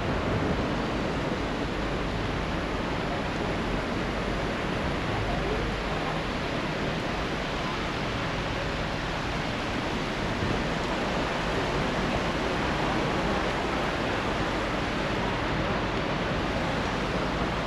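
Steady, even rushing of sea surf and wind, with no single wave breaks or other events standing out.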